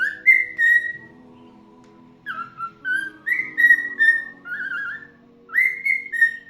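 Pet cockatiel whistling a tune: three short phrases of clear, slightly warbling notes, each phrase stepping up and then holding, with brief pauses between them.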